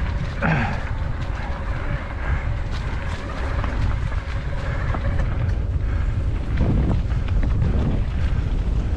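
Wind buffeting the microphone over the steady rumble of a bike rolling down a mountain trail, with one short falling squeal near the start.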